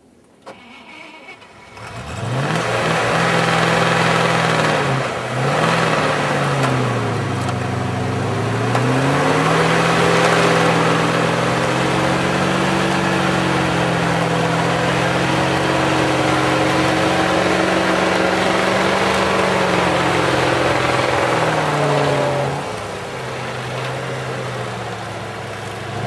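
GAZ-66 truck engine coming in loud about two seconds in and revving, its pitch rising and falling again and again, then easing to a lower level near the end.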